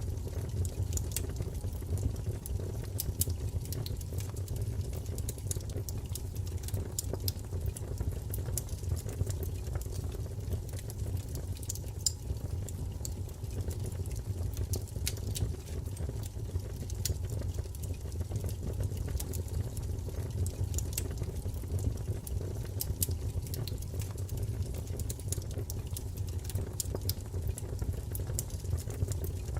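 Wood fire burning in a fireplace: a steady low rumble of flames with many small, sharp crackles and pops at irregular moments.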